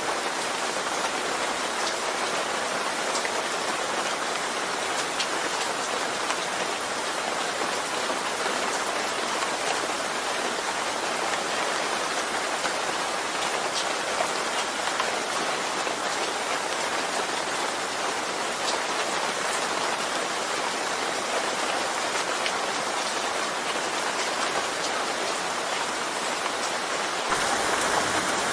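Steady rain falling on a surface, an even hiss with individual drops ticking now and then. About a second before the end it turns abruptly louder and fuller.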